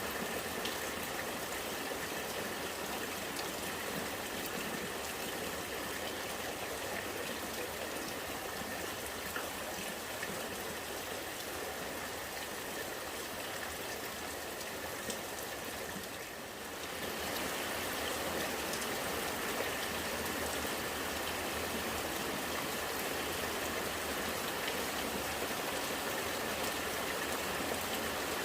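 Rainwater running and gurgling with rain falling, a steady wash of water sound. It dips briefly a little past halfway, then goes on slightly louder.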